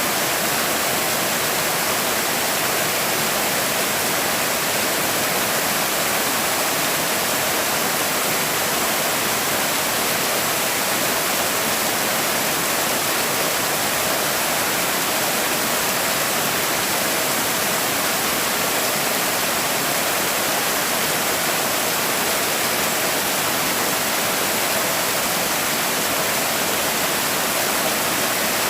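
Forest stream water rushing and splashing in a steady, even noise with no change.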